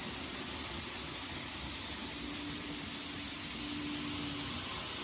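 N-scale model train running on its track: a steady hiss, with a faint low motor hum from about two seconds in that fades near the end.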